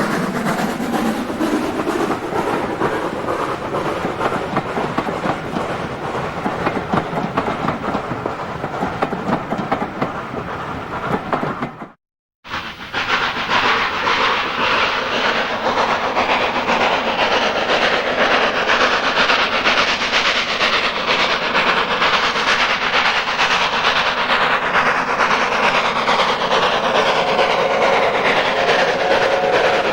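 A train running along the heritage line, with steady rail noise and wheels clattering over the rail joints. The sound drops out for about half a second around twelve seconds in, then carries on.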